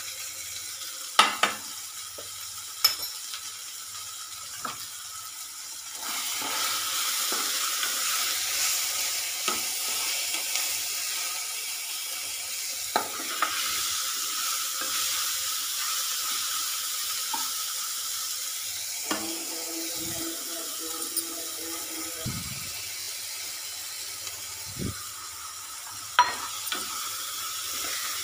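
Onions and tomatoes sizzling in oil in a non-stick pan while a spatula stirs them, with occasional sharp clicks of the spatula against the pan. The sizzle grows louder about six seconds in.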